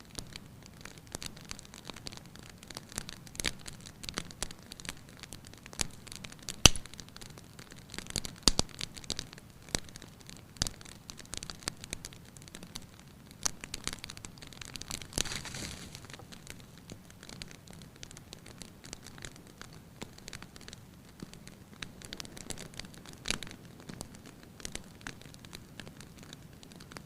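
Wood fire crackling in a fireplace: irregular pops and snaps over a soft hiss, with a short swell of rushing noise about fifteen seconds in.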